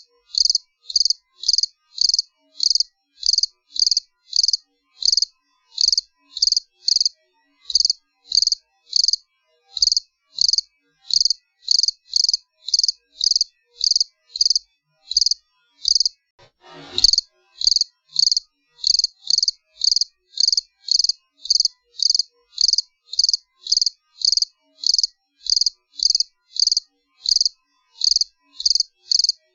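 Cricket chirping steadily, short high-pitched chirps repeated at about two a second. Once, a little over halfway through, the chirping pauses briefly for a short noise.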